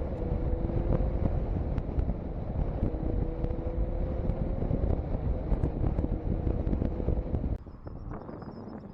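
Motorcycle riding with its engine running as a faint steady hum under heavy wind buffeting on the camera microphone. The sound drops off sharply near the end.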